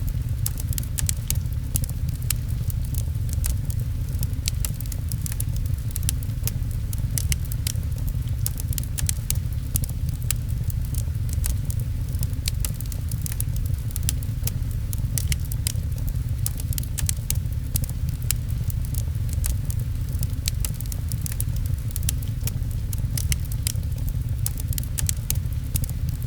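Fireplace wood fire crackling, with frequent sharp pops, over a steady low rumble and the patter of rain.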